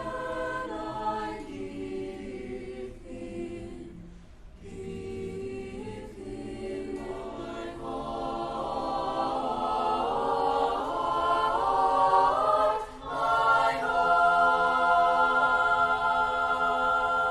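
Student choir singing without words the recogniser caught, in long sustained chords that swell louder through the middle, break briefly near the end, then hold a loud final chord.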